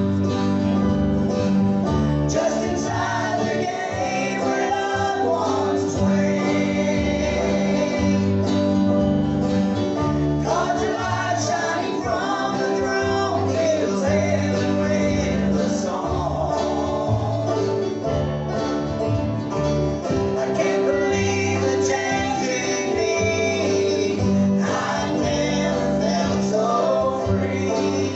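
Live gospel music in a bluegrass style: acoustic guitar and other plucked strings over a steady bass line, with voices singing in phrases that come and go.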